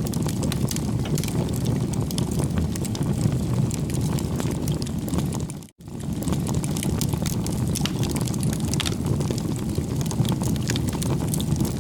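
Bonfire burning: a steady low rumble of flame with scattered crackles and pops of burning wood. The sound drops out briefly about six seconds in and resumes.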